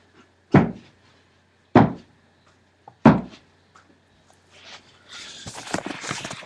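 Three heavy thuds about a second and a quarter apart, followed near the end by a stretch of rustling and knocking.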